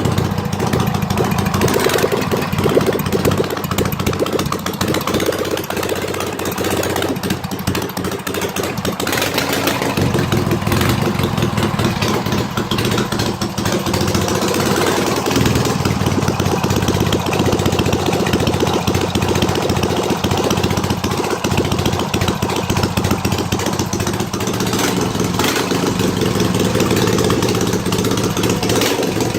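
Rebuilt K-750 side-valve flat-twin motorcycle engine, fitted with modified oversize car pistons, running steadily on a test run, its speed shifting a little now and then.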